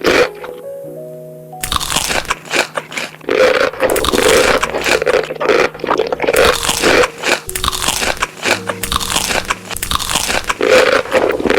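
Close-miked eating: repeated crunchy bites and chewing, starting after a brief pause about a second and a half in, with background music underneath.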